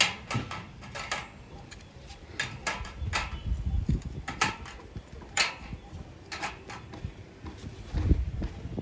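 A dozen or so sharp knocks and clicks at uneven intervals, the clatter of parts and tools being handled while a solar water heater is assembled, over a low rumble.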